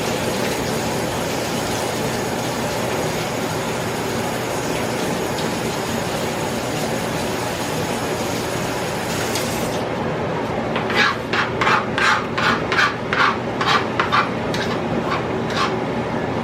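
Kitchen knife slicing through food on a cutting board: a quick run of about a dozen even strokes, two to three a second, beginning about two-thirds of the way in, over a steady background hum.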